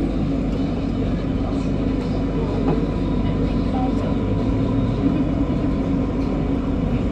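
Steady noise inside an MRT Kajang Line metro train, with a faint steady tone.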